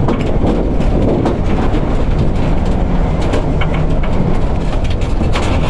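Strong wind buffeting an electric tricycle's camper box, heard from inside: a loud, steady low rumble with scattered clicks and rattles as the shaking vehicle body and its rooftop solar panel knock.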